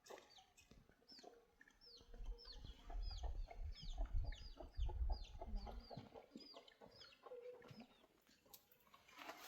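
Chicks peeping: a run of short, high calls, each sliding downward, about two a second, that stops near the end. A low rumble sits beneath the middle of it.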